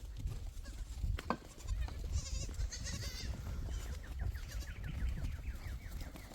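Goats bleating in wavering, quavering calls over a steady low rumble, with a single sharp knock about a second in.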